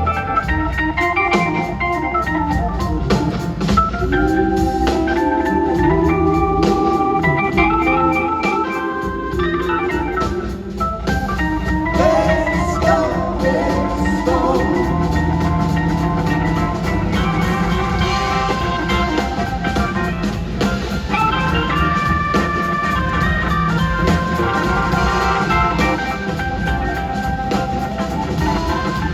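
Blues-rock band playing an instrumental passage without singing, an organ out in front over drums and bass.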